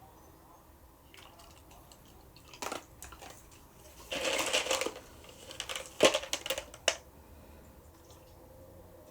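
Scattered crinkling and crunching noises, with a dense rustle lasting about a second from about four seconds in, and a few sharp clicks near six and seven seconds.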